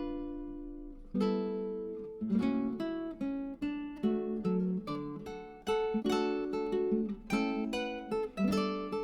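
Background music: an acoustic guitar plucking and strumming a gentle melody of chords.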